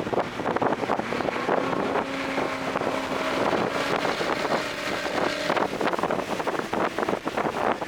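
Toyota GR Corolla's turbocharged 1.6-litre three-cylinder engine, fitted with an aftermarket intake, pulling on a race track, with heavy wind noise over it. A steady, even-pitched tone rises in over the engine about a second and a half in and fades out after about four seconds.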